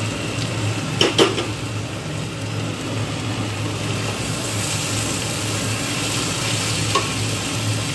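Fried small fish, potatoes and ridge gourd sizzling in oil in a non-stick kadai while a wooden spatula stirs them, the sizzle growing stronger in the second half. A couple of sharp knocks about a second in and another near the end, over a steady low hum.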